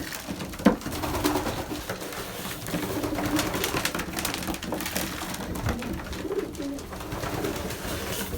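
Racing pigeons cooing in the loft, with scattered sharp taps and clicks around them and one louder knock near the start.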